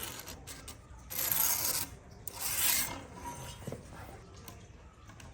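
Two scraping, rasping strokes, each under a second long and about half a second apart, as of a hand tool or abrasive worked over a wooden surface.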